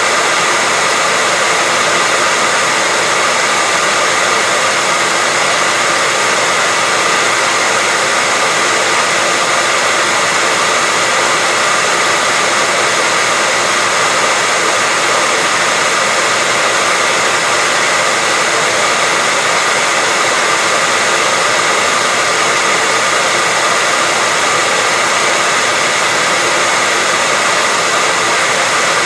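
Hair dryer running steadily: a constant whoosh of blown air with a faint steady whine from its motor.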